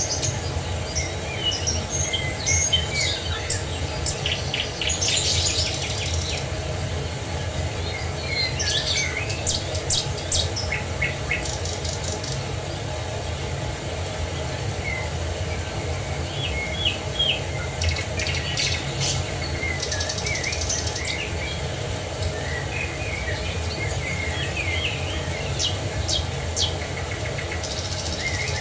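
Several small birds chirping and singing in quick, overlapping calls and trills, over a steady low rush of falling water.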